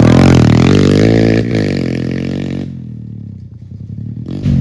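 Pit bike engine running hard, its pitch sliding down as the throttle comes off. A little past halfway it drops away to a faint low rumble, then a loud engine comes back just before the end.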